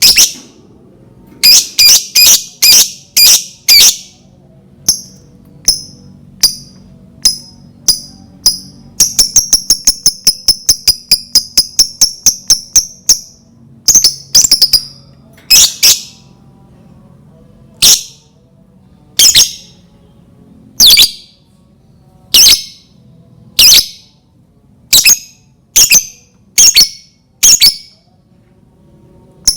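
Lovebird calling with loud, shrill chirps, some in quick groups and some single. A fast chattering run of about eight calls a second lasts some four seconds near the middle. Toward the end the chirps come singly, about every second and a half. This is the kind of lure call played to set other lovebirds singing.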